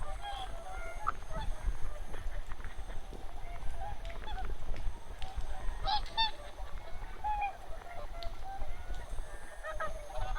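A flock of wild geese and swans calling, with many short honks overlapping throughout.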